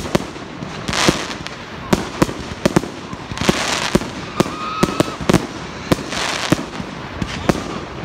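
Fireworks display: a rapid, irregular series of sharp bangs from bursting shells, with stretches of crackling hiss in between.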